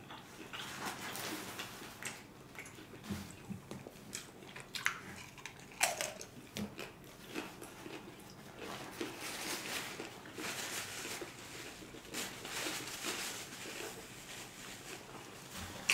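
Chewing a mouthful of crunchy hard-shell taco close to the microphone: a run of crackling crunches, with a few sharper snaps about five to six seconds in and again near twelve seconds.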